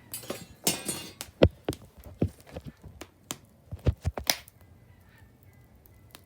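Firewood being handled at a bonfire: a run of irregular wooden knocks and thuds, two of them heavier, with a brief rustle about a second in. The knocking stops before the end.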